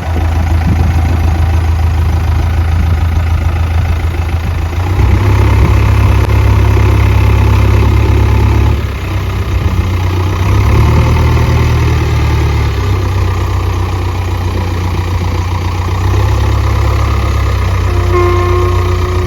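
A motor vehicle's engine running, its low rumble steppping up and down in pitch several times as the engine speed changes. A short steady tone sounds near the end.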